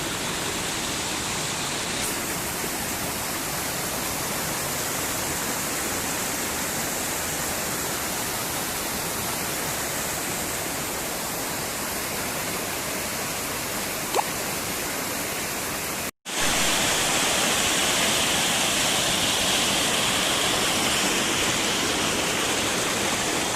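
Water rushing steadily down a series of small waterfalls on a mountain stream. About two-thirds through, the sound cuts out for a moment and comes back a little louder.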